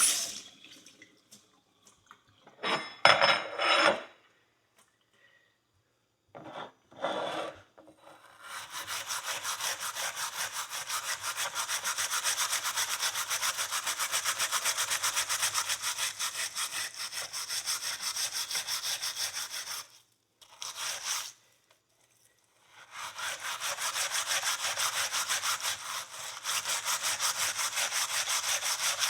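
Steel wool scrubbed hard against a steel horseshoe in fast, even back-and-forth strokes. It comes as two short bursts, then long stretches of steady scrubbing with a brief pause near the middle, cleaning rust and grime off the metal.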